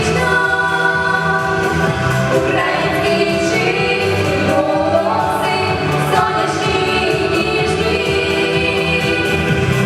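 Singing with musical accompaniment, held notes that change pitch every second or so.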